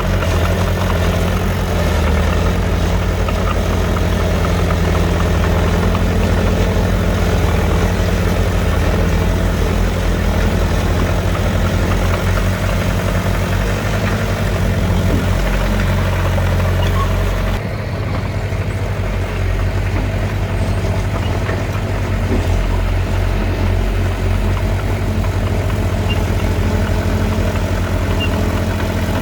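Heavy diesel engine of earthmoving machinery running steadily with a deep, even rumble. The higher hiss drops away suddenly about two-thirds of the way in while the engine carries on.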